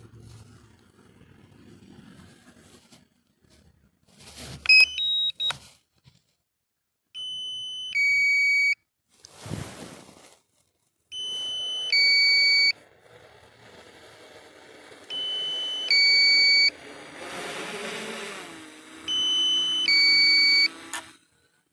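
Two-tone electronic beep from the Specta Air drone's low-battery warning: a higher tone stepping down to a louder lower one, repeating four times, about every four seconds. A few clicks and a thump come before the beeps start.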